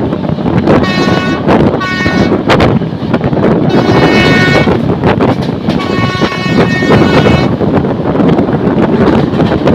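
WAP7 electric locomotive passing at speed through a station, with a loud rush of train and wind noise, sounding its horn four times: two short blasts about a second apart, then a longer one and a still longer one.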